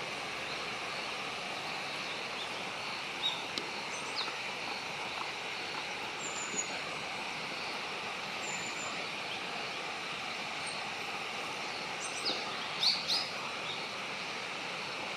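Short, thin, high bird calls: single chirps a few seconds apart, then a louder cluster of two or three about twelve to thirteen seconds in, over a steady outdoor background hiss.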